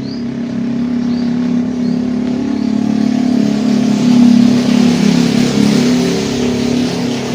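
A motor vehicle engine passing close by, growing louder for about four seconds and then fading.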